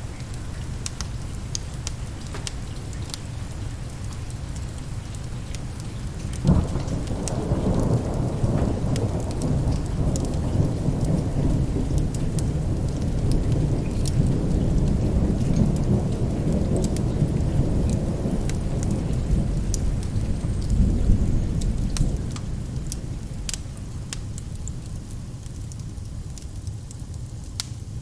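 Steady rain with fine crackles throughout; about six seconds in, a sharp thunderclap opens a long low rolling rumble of thunder that swells and fades over some fifteen seconds.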